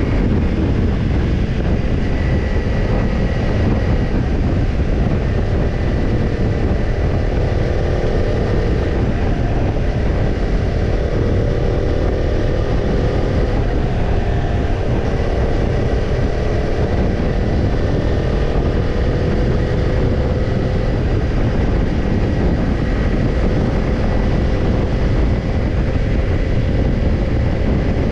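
Kawasaki Ninja 250's parallel-twin engine running steadily through a BEET Japan slip-on muffler at cruising speed, its exhaust note faint under heavy wind rush on the microphone.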